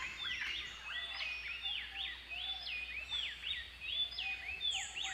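Birds chirping faintly, a quick run of short, repeated calls that sweep up and down in pitch, several overlapping.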